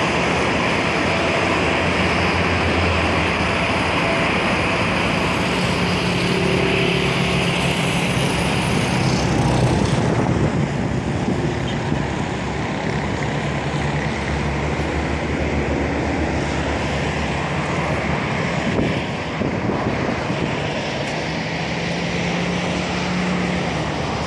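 Steady engine rumble mixed with a broad rushing noise, the high hiss easing off a little about ten seconds in.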